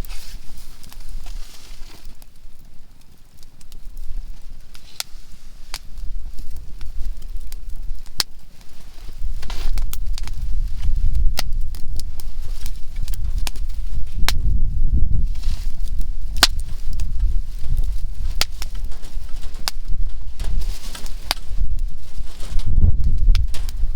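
Softwood campfire crackling, with scattered sharp pops from the burning conifer logs. A low rumble underneath grows louder from about nine seconds in.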